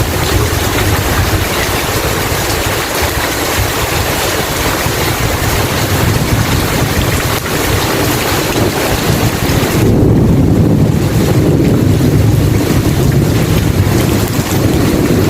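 Heavy rain pouring steadily, with a low thunder rumble underneath. About ten seconds in, the rain's hiss thins and the low rumble swells.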